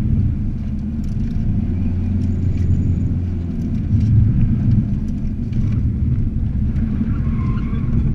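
Volkswagen Corrado's swapped-in TDI turbo-diesel engine running under load from inside the cabin, a low steady rumble whose note shifts about halfway through as the car works through the cones.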